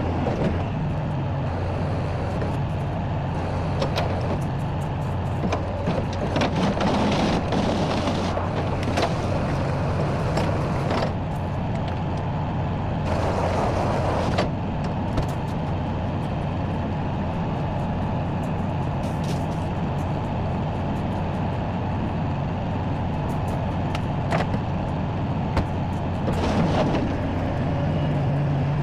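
A tow truck's engine runs steadily throughout, with frequent short metallic clanks and knocks. A burst of hiss comes about thirteen seconds in.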